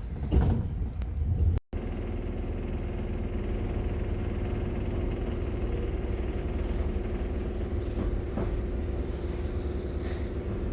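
Enoden electric train running, heard from inside the carriage: a steady low rumble with a constant hum. The sound drops out abruptly for an instant under two seconds in; it is louder before the break and even after it.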